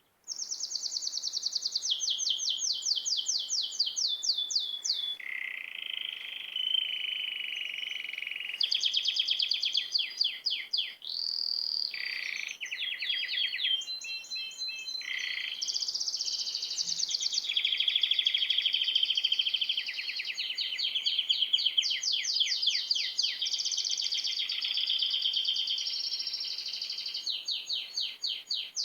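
Small birds chirping, many fast trills and runs of high chirps overlapping without a break, cutting in suddenly at the start.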